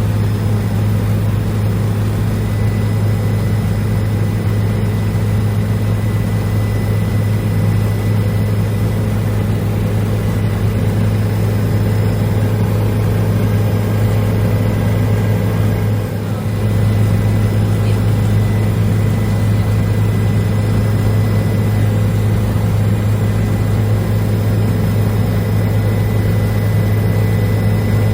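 Helicopter engine and rotor noise heard from inside the cabin in flight: a loud, steady low drone with a faint high whine above it. The drone dips briefly about two-thirds of the way through.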